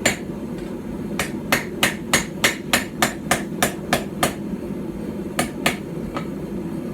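Small hand-forged hammer striking hot steel on a stump anvil while forging a knife blank flat and square. It beats at about three ringing blows a second, pauses about four seconds in, then lands two or three more blows.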